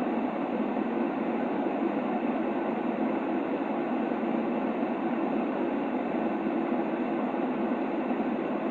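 Steady white noise played to soothe a baby: an even, dull rushing hiss without breaks, weighted toward the lower middle with little treble.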